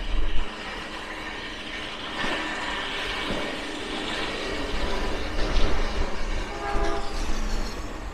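Norfolk Southern diesel train running, with a steady low hum under a rumble that swells from about two seconds in and holds until near the end.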